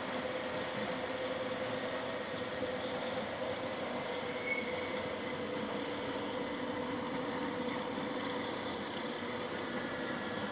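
Night-train passenger coaches rolling past along a platform: a steady rumble of wheels on rail, with a steady mid-pitched tone running through it.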